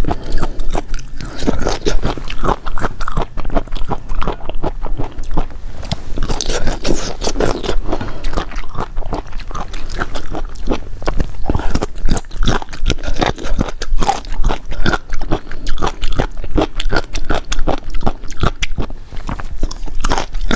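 Close-miked eating: crunching and chewing of food in quick, dense succession.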